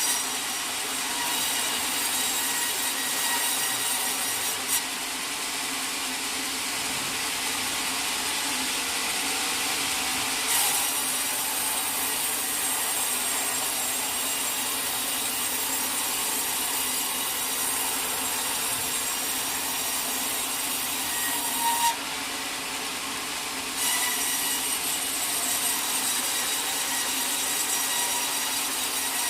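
Sawmill saw cutting lengthwise through a teak log: a steady, continuous sawing noise with a held machine tone under it. The cut briefly eases about 22 seconds in, then picks up again.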